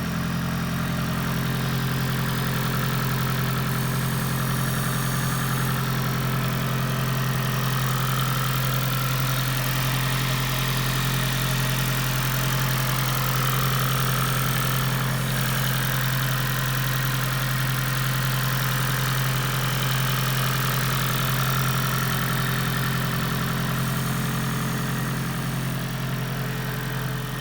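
Toyota Prius 2ZR-FXE 1.8-litre four-cylinder petrol engine idling with a steady, unchanging drone.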